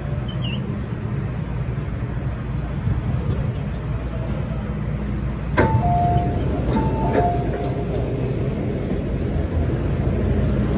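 MTR M-Train running with a steady rumble. About five seconds in, an onboard chime sounds a two-note falling tone twice.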